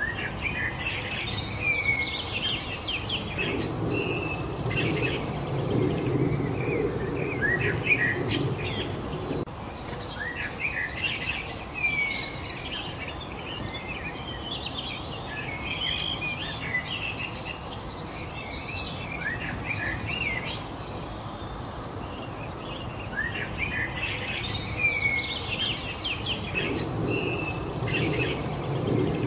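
A chorus of several small birds chirping and singing in quick overlapping phrases over a steady background hiss. A low rumble swells in twice, from about four seconds in to about nine seconds, and again near the end.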